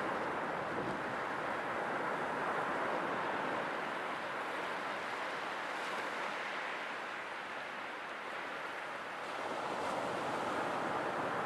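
Sea waves washing onto a shore in a continuous hiss that swells and ebbs, easing off past the middle and building again near the end.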